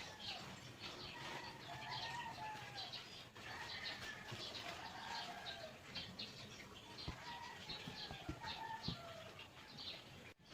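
Birds chirping and calling over and over, with short high chirps and some longer curved calls, and a few soft knocks near the end.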